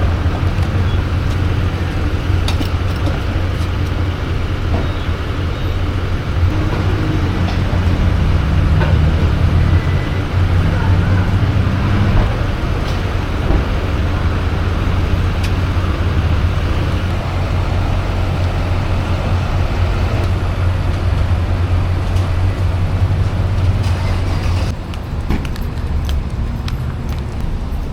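Steady low road and engine rumble heard inside a moving minivan. It eases down slightly near the end.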